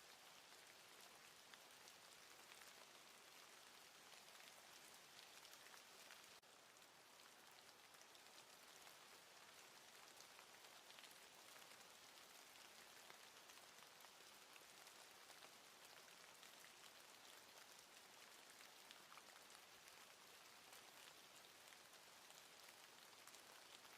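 Very faint, steady patter of falling precipitation, a fine crackle of tiny ticks over a soft hiss, with a brief change in tone about six seconds in.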